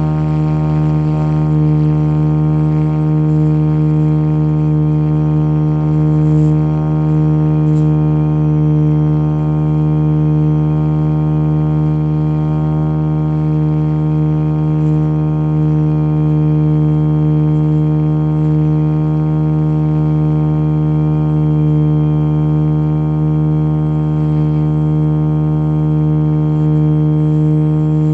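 Motion RC Jet Ranger model helicopter's motor and rotors holding a steady droning hum, with no change in pitch throughout.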